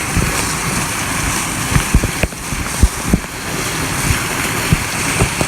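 Waterfall pouring with a steady rushing of water, with irregular low thumps of wind buffeting the microphone.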